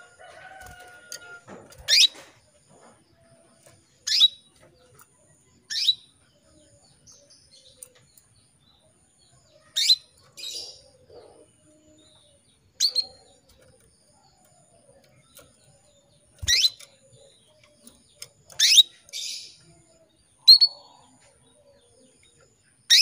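Female canary calling for a male: short upward-sweeping call notes, one every two to four seconds, about nine in all, several followed by a softer second note.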